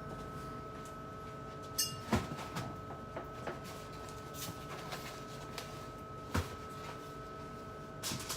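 Food items and containers knocking and clunking as they are set back on refrigerator shelves, with the two loudest knocks about two seconds in and about six seconds in. A steady hum runs underneath.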